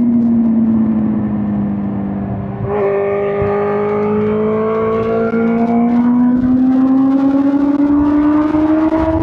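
2005 Suzuki GSX-R1000 K5's inline-four engine on the move, its revs easing down for the first couple of seconds. About three seconds in the throttle opens and the engine note grows louder and rises steadily.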